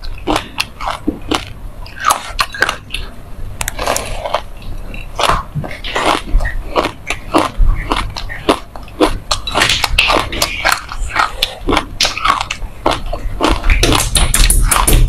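Close-miked chewing of a sesame-seed-coated ice cream bar: a dense, steady crackle of seeds being crunched between the teeth, louder and thicker near the end with a fresh bite.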